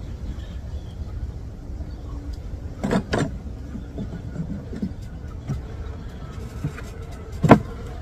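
Wooden beehive frames and the hive tool knocking against the hive box during a frame-by-frame inspection. There is a double knock about three seconds in, a few lighter taps, and one sharp, loudest knock near the end, over a steady low rumble.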